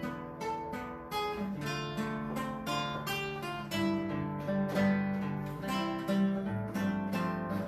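Acoustic guitar playing an instrumental introduction, with rhythmic strummed chords over moving bass notes, to a cheerful, dance-like song.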